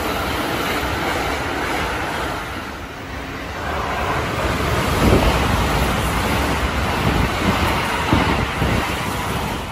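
Keikyu electric trains running through the station at speed: a steady rumble and rattle of wheels on rails that eases about three seconds in, then builds again as a second train rushes past, with a few heavy thumps from its wheels.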